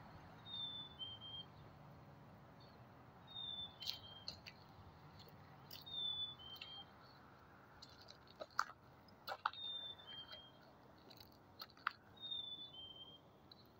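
A bird sings a short two-note whistle, the second note a little lower than the first, and repeats it about every three seconds, five times over. A few sharp clicks fall between the songs.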